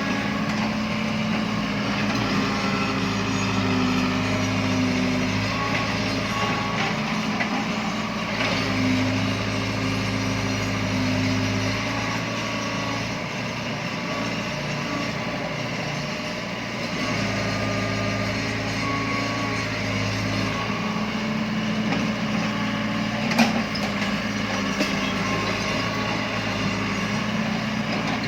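Diesel excavator engine running steadily, its drone growing louder for stretches of a few seconds at a time and then easing off, with one sharp knock late on.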